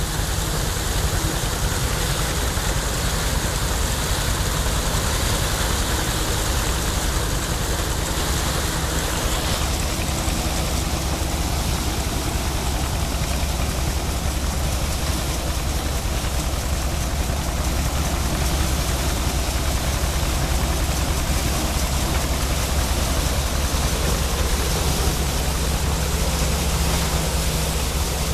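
Allis-Chalmers All-Crop 66 combine harvester running steadily while harvesting grain: a constant engine drone under a dense, even hiss of threshing machinery.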